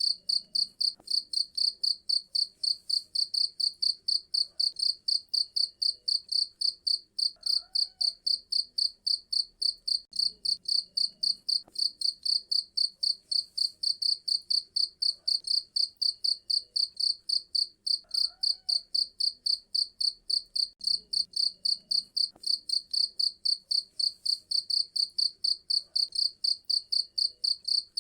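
Cricket chirping in a steady, even rhythm: rapid high-pitched chirps at about four a second.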